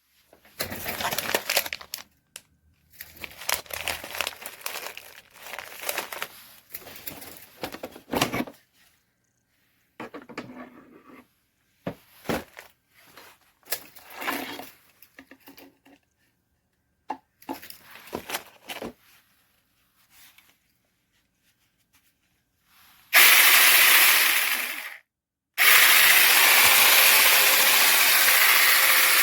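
Irregular handling noises, rustling and light knocks, then near the end a SEESII 6-inch cordless mini chainsaw's electric motor runs twice. The first run lasts about two seconds and winds down. The second starts shortly after and runs on steadily.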